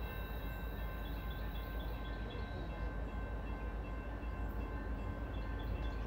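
Low, steady rumble of a distant train approaching on the line, with faint steady high-pitched tones and a few small chirps over it.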